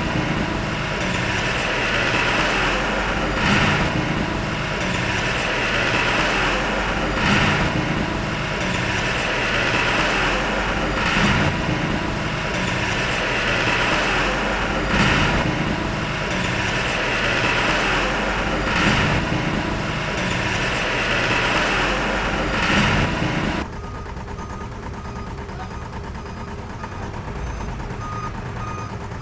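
Heavy diesel earthmoving machinery running hard, its sound swelling and easing in a regular cycle about every four seconds. The loud part cuts off suddenly about 24 seconds in, leaving a quieter steady machine sound.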